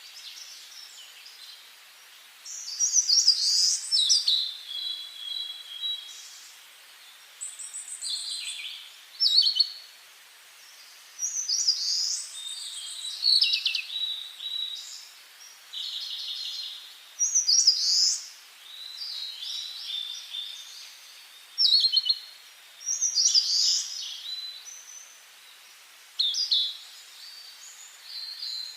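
Songbirds singing: short phrases of trills and whistles that come every two or three seconds, over a faint steady hiss.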